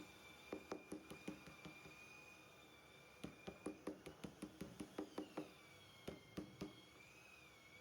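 Three short runs of quick, light knocks, about four a second, over a faint steady high whine that wavers slowly in pitch.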